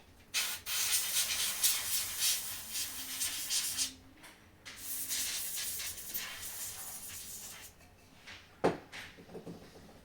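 Scratchy, hissing rubbing noise in two stretches of about three and a half seconds each, with a short gap between, then one sharp click near the end.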